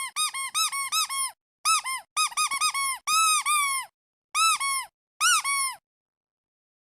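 Squeaky duck toy being squeezed: clusters of short, high squeaks, each rising then falling in pitch, with a few longer squeaks mixed in. The squeaking stops about six seconds in.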